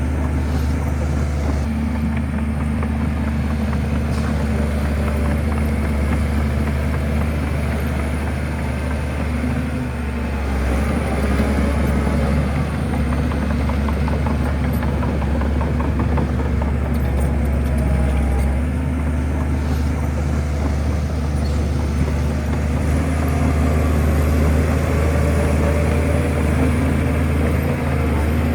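Diesel engine of a Shantui bulldozer running steadily, swelling a little louder about a third of the way in and again near the end.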